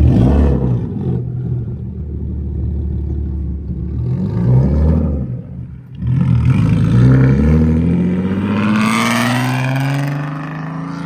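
Car engine revving in a couple of short swells, then pulling away with its pitch rising steadily from about six seconds in.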